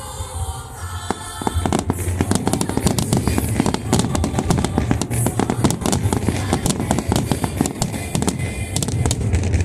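Large aerial fireworks display in a rapid barrage: a dense run of bangs and crackles that starts about a second and a half in and keeps on to the end, over music played on loudspeakers.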